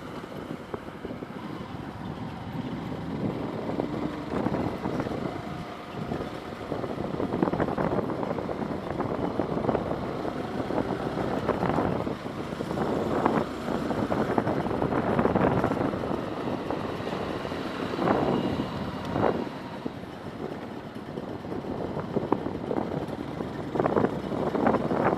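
Passing motor traffic: a steady rush that swells louder several times, with wind buffeting the microphone.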